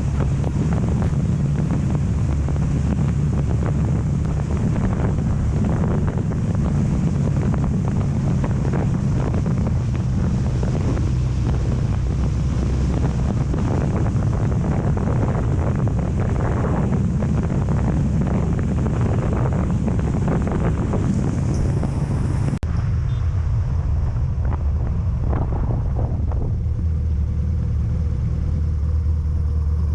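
Motorcycle engine and wind rushing over the microphone while riding, a steady low running sound. It changes abruptly about two-thirds of the way through, the hiss dropping away and a steadier low hum remaining.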